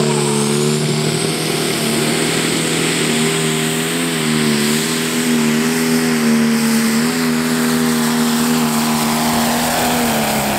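Pro Stock pulling tractor's single-turbo diesel engine running at high, steady revs under full load during a pull, with a high whine rising in pitch over the first couple of seconds.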